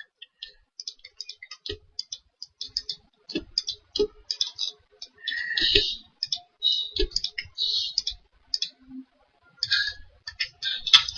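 Irregular clicking and tapping at a computer keyboard and mouse, quick runs of clicks with short gaps.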